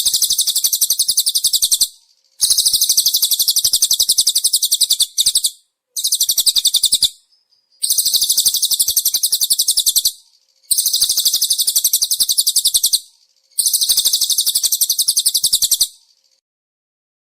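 Recorded songbird song: a series of rapid, high-pitched trills, each two to three seconds long with short pauses between, stopping about 16 seconds in.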